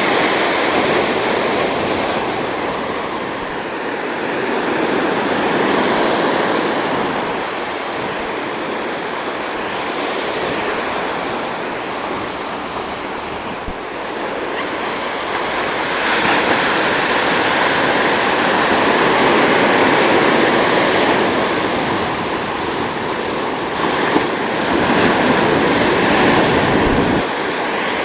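Ocean waves washing in, swelling and fading every several seconds.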